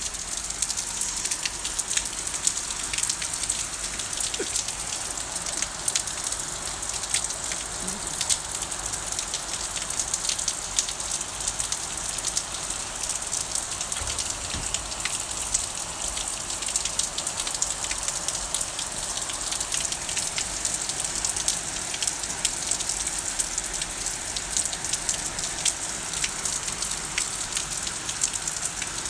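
Heavy rain pouring down steadily, a dense hiss thick with the patter of individual drops striking a surface.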